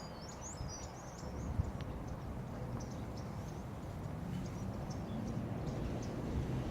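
Wind buffeting the microphone with a low, steady rumble, while small birds chirp in short high notes, mostly in the first second or two.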